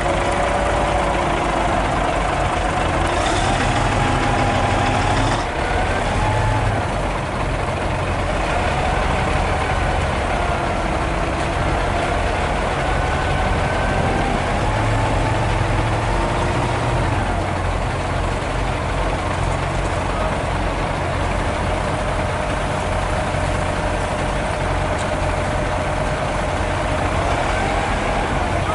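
Hino 500 FM320TI truck's diesel engine running steadily, heard from inside the cab, with slowly drifting whining tones over the drone. A brief hiss comes about three seconds in.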